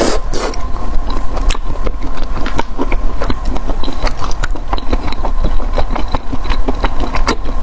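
Close-miked crunching and chewing of crispy fried chicken skin: many sharp, irregular crackles over a steady low hum.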